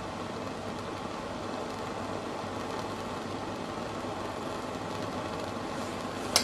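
Homemade methylated-spirit Supa Burner for model steam engines burning with a steady blowtorch-like rush as its spirit reservoir warms up. A single sharp click near the end.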